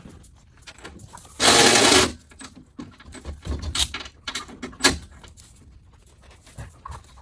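Power ratchet running briefly in one short burst of under a second, then a few light clicks.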